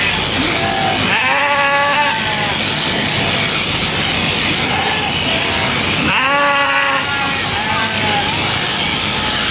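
Sheep bleating twice, once about a second in and again about six seconds in, each call lasting about a second, over a steady background noise.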